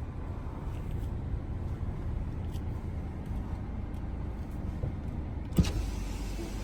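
Car engine idling with a steady low rumble, and a single sharp click a little past five seconds in.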